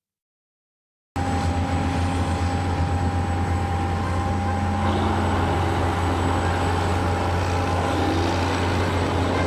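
A vehicle engine running steadily with a deep low drone and a faint steady whine, cutting in abruptly about a second in after dead silence.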